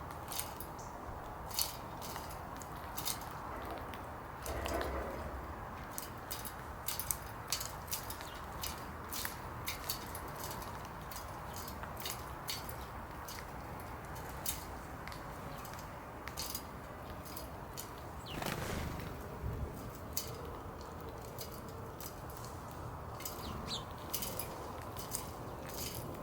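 Small birds pecking and cracking seed at a feeder close to the microphone: sharp, irregular clicks and taps over steady outdoor background, with a brief louder rustle twice.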